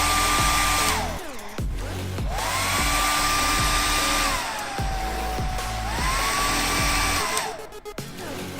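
Syska HD1610 hair dryer blowing, its motor whine gliding up to a higher pitch, holding, then gliding back down as it is switched between speed settings. The rush of air dips away briefly twice, about a second and a half in and near the end.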